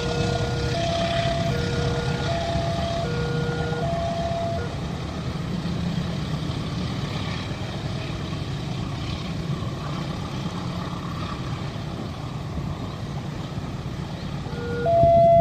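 Railway level-crossing warning alarm sounding alternating high and low electronic tones in a steady cycle. It stops about five seconds in and starts again loudly near the end. A steady low engine rumble runs underneath.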